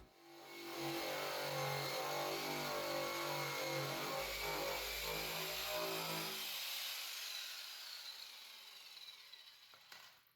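Power sander running on a car door's painted steel, its hum stepping up and down in pitch as the pressure changes. About six seconds in it is switched off and winds down.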